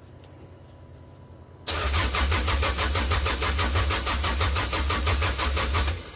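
1998 Toyota Camry engine cranking on the starter without catching, in an even beat of about seven pulses a second. It starts under two seconds in and stops near the end. It is a no-start that the owner cannot explain, since he says he has spark and fuel.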